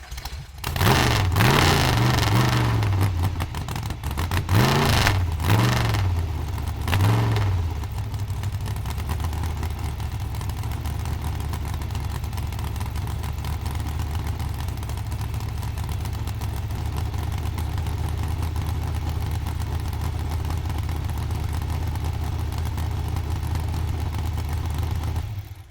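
Supercharged truck engine being revved: one long rev about a second in, then three quick blips of the throttle, before it settles into a steady idle.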